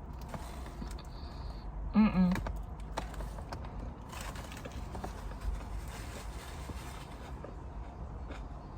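A woman's short vocal sound, about half a second long, comes about two seconds in. Otherwise there is only a low steady hum with faint scattered clicks.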